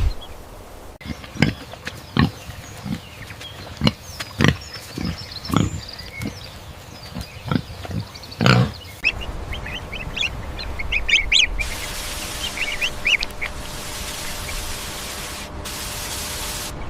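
Farm animals calling: a run of short, loud calls over the first nine seconds or so, then high chirps that carry on over a steady hiss for the last five seconds.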